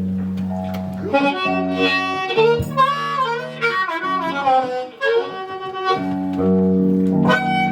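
Blues harmonica playing a line of bending, wavering notes over sustained guitar accompaniment.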